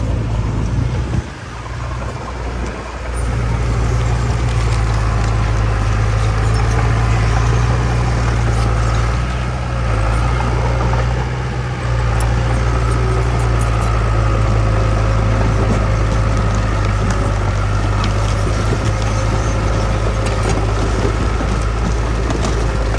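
Heavy diesel engine of earthmoving machinery running steadily with a deep low note, dipping briefly about a second in before settling back.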